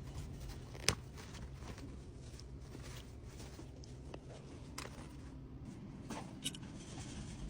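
Faint handling of small packed items: soft rustling with scattered light clicks, one sharper click just under a second in.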